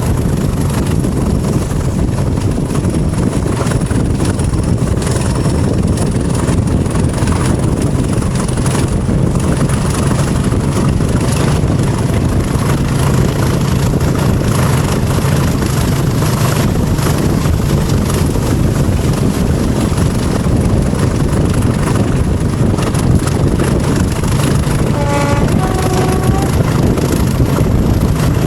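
Class 20 diesel locomotive's English Electric eight-cylinder engine working steadily ahead of the train, heard from a carriage along with the running noise of the coaches on the rails. Near the end a two-note horn sounds briefly, high then low.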